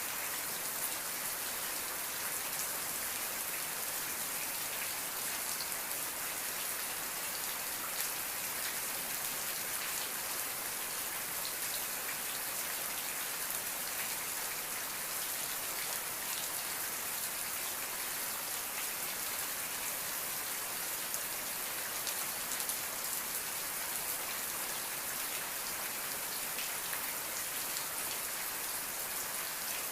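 Steady rain falling, an even hiss with many fine drop patters on a surface.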